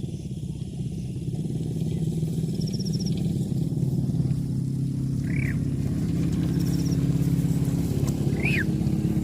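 A small engine running steadily, its pitch and loudness stepping up a little partway through. Two short high chirps sound over it late on.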